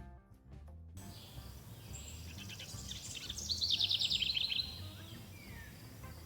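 A songbird singing a rapid, high trill of chirps from about two to four and a half seconds in, over steady outdoor background noise. A short snatch of music cuts off about a second in.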